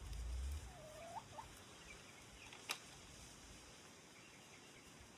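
Faint outdoor quiet with a soft, curving call from a backyard fowl about a second in, a few faint high chirps, and one sharp click near the middle.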